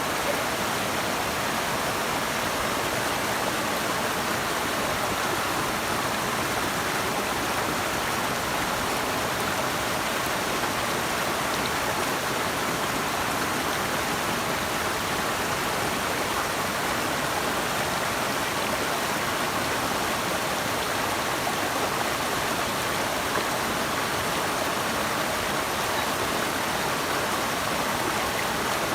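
Flowing water rushing steadily and evenly, with no change in level.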